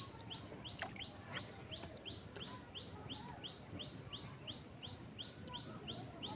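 A bird calling one short, high, rising chirp over and over, very evenly, about three times a second, with a few faint clicks in between.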